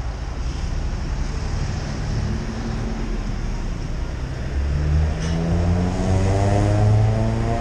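Steady city traffic rumble with wind on the microphone, then from about halfway through a nearby car engine accelerating, its pitch climbing in steps as it gets louder.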